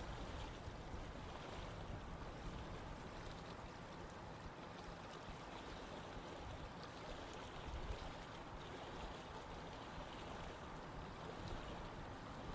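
Running water: a stream flowing and splashing over rocks, a steady rushing noise with small scattered splashes.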